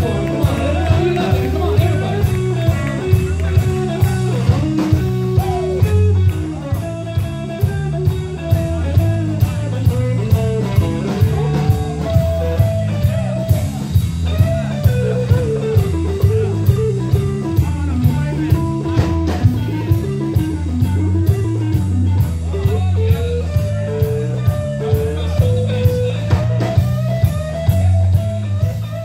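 Live band playing a blues-rock song: a lead electric guitar line with bent notes over bass guitar and a steady drum beat.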